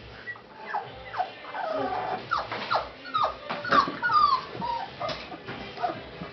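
Month-old puppies whimpering and squealing in many short, overlapping high squeaks, with a few sharp clicks among them.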